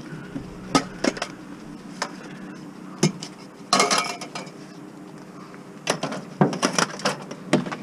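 Hard objects clanking and clattering as junk is rummaged through and handled: a string of separate knocks, with a busier rattle about four seconds in and a run of knocks near the end.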